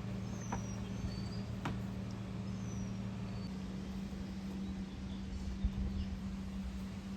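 A few faint, short, high chirps from small animals over a steady low hum, with a couple of sharp clicks in the first two seconds.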